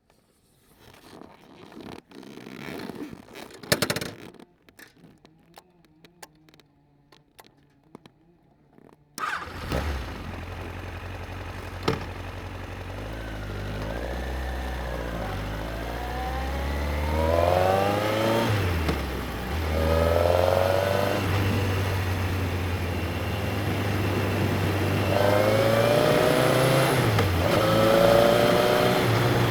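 Scattered clicks and knocks for about nine seconds, then the Yamaha XJR1300's air-cooled inline-four engine starts suddenly and runs at a steady low idle. From about thirteen seconds it revs up again and again in rising sweeps as the motorcycle accelerates through the gears.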